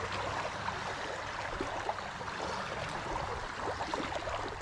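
Steady trickling, gurgling water with many small splashes and ticks, over a faint low hum, ending in a sharp knock.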